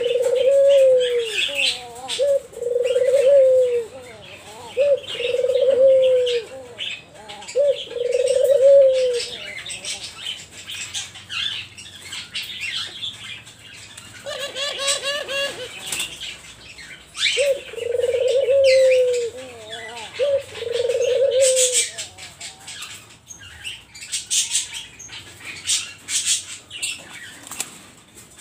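Doves cooing over and over, each coo about a second long, in runs with a gap in the middle and none after about 22 seconds. Wings flap and sharp scratchy clicks sound throughout.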